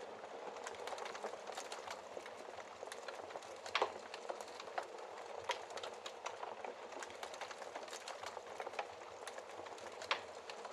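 Wood fire burning in a fireplace: a steady hiss with frequent small crackles and a few louder pops, the loudest about four seconds in and another near the end.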